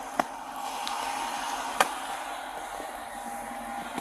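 Steady hum and hiss of vehicles running at the roadside, with two sharp clicks about a second and a half apart.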